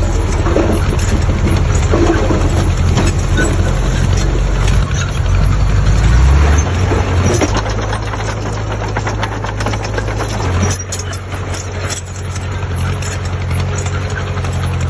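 Heavy construction machine's diesel engine running, its note shifting a few times, loudest about six seconds in.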